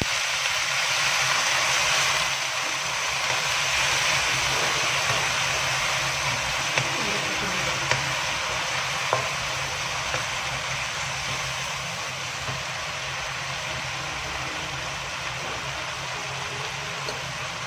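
Okra stir-fry sizzling in a hot non-stick wok just after a sprinkle of water, the sizzle slowly dying down while a wooden spatula stirs it, with a few light spatula clicks.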